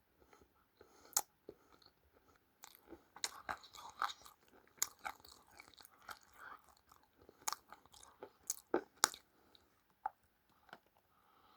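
Chewing of crunchy food close to the microphone: irregular sharp crunches and crackles in clusters, the loudest about nine seconds in.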